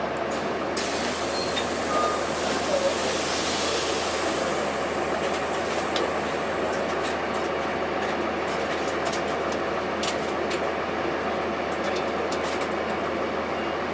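Cabin noise aboard a 2002 Blue Bird CS transit bus: its Cummins ISC diesel running steadily while interior fittings rattle and tick now and then.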